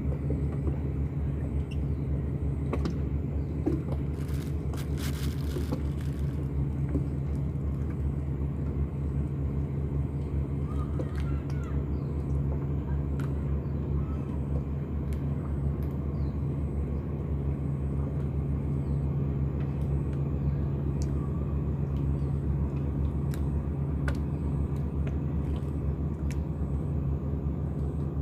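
Engine running steadily at a constant speed, a low even drone, with a few faint clicks and knocks about four to six seconds in.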